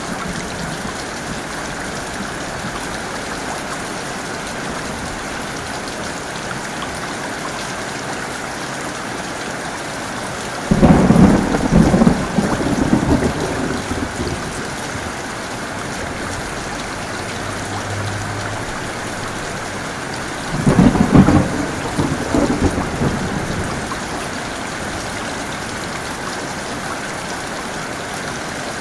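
Heavy rain falling steadily, with two loud claps of thunder about ten seconds apart, each rumbling on for a few seconds.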